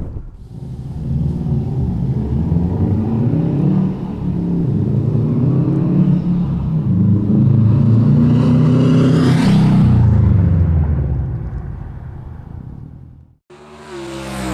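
2008 Subaru WRX STi's turbocharged flat-four engine heard through an Invidia N1 cat-back exhaust. The exhaust note builds to its loudest about two thirds of the way through, then fades and cuts off shortly before the end.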